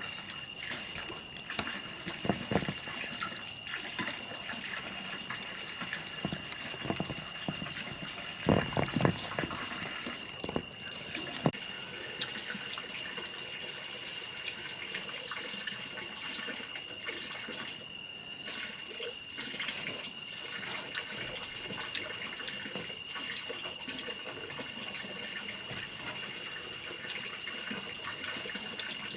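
Water running and splashing, with a few scattered knocks and a steady high-pitched tone over it.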